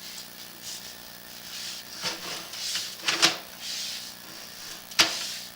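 Sewer inspection camera's push cable being worked back through the pipe, with irregular rubbing and scraping, a cluster of clicks about three seconds in and a sharp knock about five seconds in.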